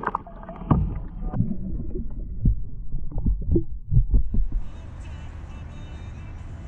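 Irregular low thumps and knocks of handling in a fishing kayak while a small bass is let go. After about four and a half seconds they stop, leaving a steady even rushing noise.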